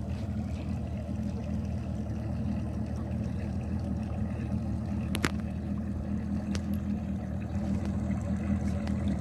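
A boat's outboard motor running at a steady speed, with a low engine drone and rushing noise. One sharp click comes about five seconds in.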